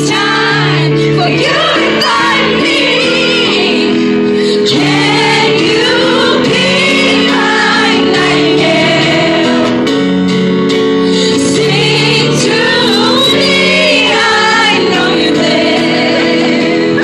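A woman singing a slow pop ballad live, over held instrumental chords, in a concert hall.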